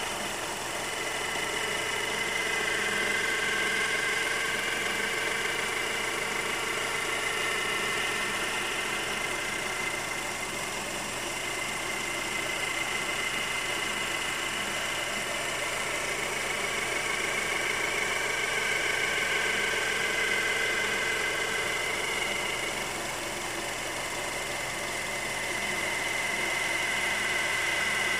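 2011 Honda CR-V engine idling with a high-pitched whine that swells and fades over several seconds at a time. This is the noise the owner reports mostly on a cold engine shortly after starting, and when the car is stopped with the air conditioning on.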